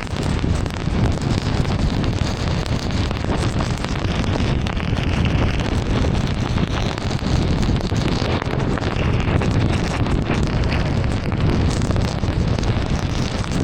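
A car driving in heavy rain: a steady hiss of rain and tyres on the wet road over a deep rumble, with no separate events standing out.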